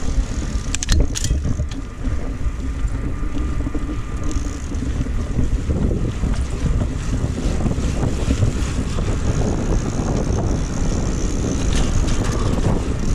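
Wind buffeting the microphone of a camera carried on a moving bicycle: a steady low rumble, with a few sharp clicks about a second in.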